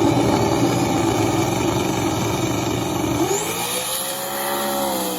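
Loud race car engine running at high revs on the drag strip, a dense rasping engine noise. About three seconds in, a steady pitched note rises and takes over.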